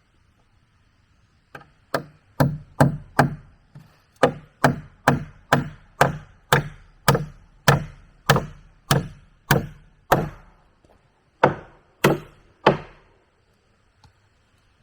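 A hand tool striking wood in steady, repeated blows, about twenty in all at a little over two a second, with a short pause near the end before three final blows.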